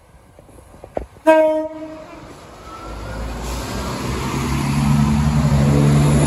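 A train horn gives one short blast about a second in. Then a diesel train's engine and wheels build steadily louder as it approaches the level crossing.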